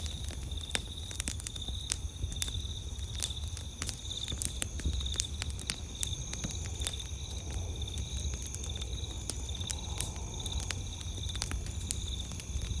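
Wood campfire crackling with irregular sharp pops, over the rhythmic high chirping of crickets and a steadier insect drone, with a low rumble underneath.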